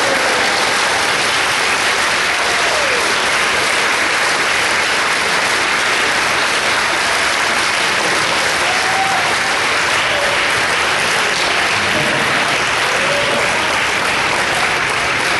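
An audience clapping steadily, with a few faint voices in it.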